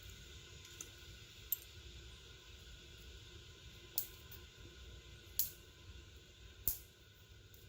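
Small wood fire burning in a Kelly Kettle camp stove while it heats water: a steady low rush with four sharp crackling pops spread across the few seconds.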